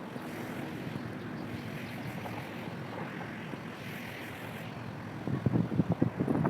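Steady outdoor background noise, with wind starting to buffet the microphone in rough, uneven gusts about five seconds in.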